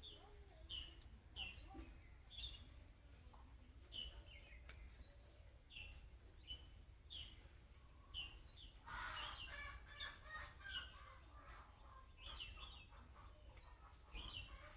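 Budgerigars calling: faint, short repeated chirps, some sliding upward, about one or two a second, with a stretch of denser warbling chatter about two-thirds of the way through.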